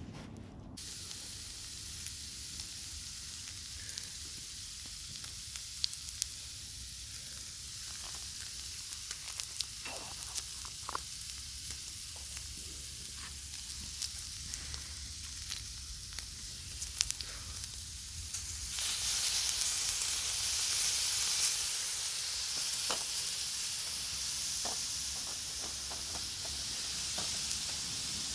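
Food frying in a hot pan: a steady sizzle with small scattered pops of spitting oil, growing louder about nineteen seconds in.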